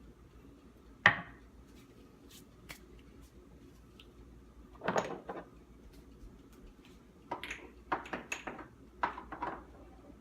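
Kitchen handling clatter: a single sharp knock about a second in, then several short bursts of tapping and scraping, as of utensils and containers being set down and handled on a counter.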